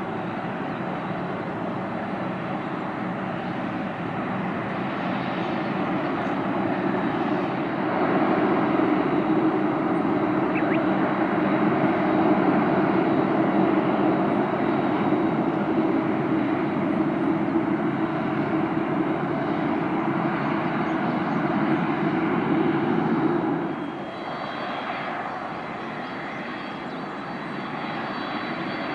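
Jet engines of a Boeing 767-300 airliner, a steady rushing noise that grows louder about eight seconds in and drops suddenly about twenty-four seconds in.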